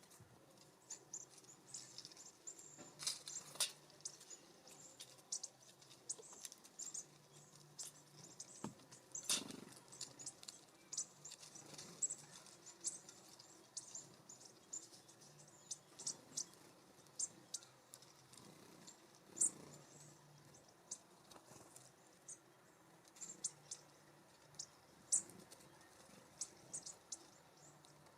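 Small songbirds calling with many short, high-pitched chips, several a second, with a few louder sharp taps mixed in.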